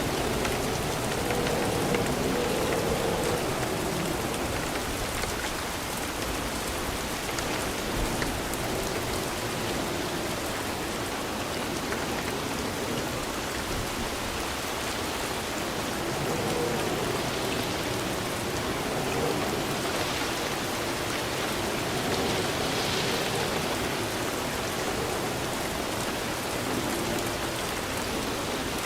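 Steady rain falling, an even, continuous hiss of drops on surfaces.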